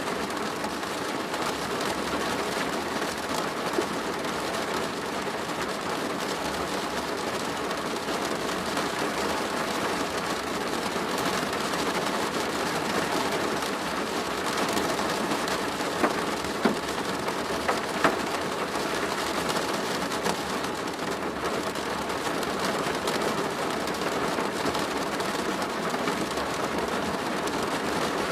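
Rain falling steadily on a plastic roof, with a few louder, sharper drop hits about two-thirds of the way through.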